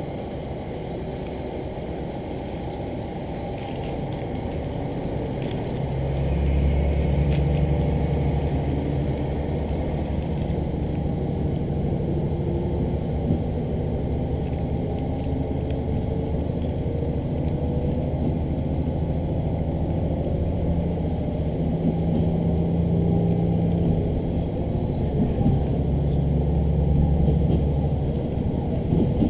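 Diesel railcar engine heard from inside the train, running quietly at first and then growing louder about six seconds in as it takes power, with a steady low drone and the clatter of the train rolling on the track.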